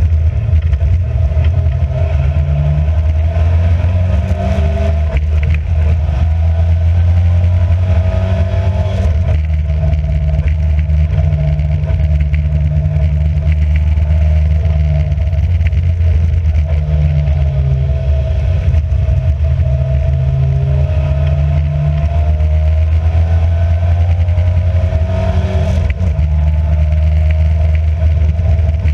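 Race car engine heard from on board, running loud and steady, its revs rising and falling repeatedly as the car is driven around the track.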